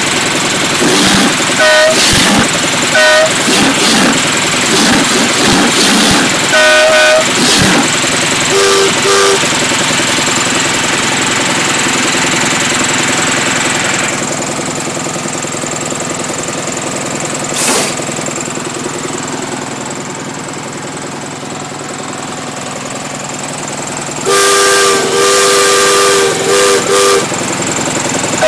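Home-made miniature train's small engine running steadily, with a few short whistle toots in the first seconds. Near the end a lower horn sounds a quick run of toots.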